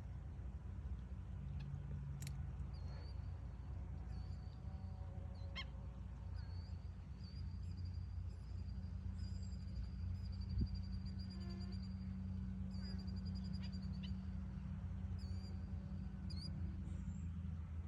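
Bird calling in short, high, sharp notes repeated at irregular intervals, with a quick run of notes about halfway through, over a steady low rumble.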